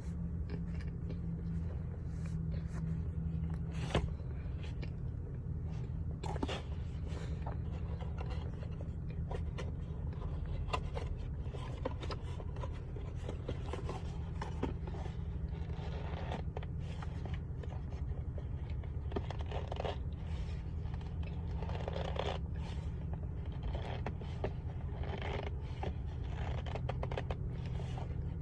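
Cornstarch being chewed and crunched close to the microphone: irregular sharp crunches and crackles, over a steady low hum.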